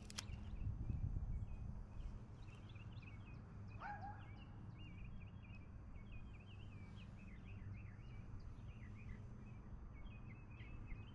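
Birds chirping and singing faintly, many short calls in quick succession, with one louder rising call about four seconds in, over a low rumble.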